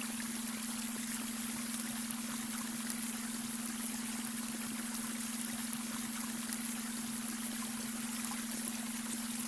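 Babbling brook water running steadily over stones, with a steady low tone underneath: the added beta-wave brainwave tone.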